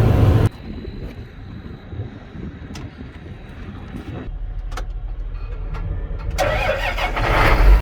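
A few sharp clicks, then a semi truck's diesel engine starts about four seconds in with a steady low rumble, running louder near the end.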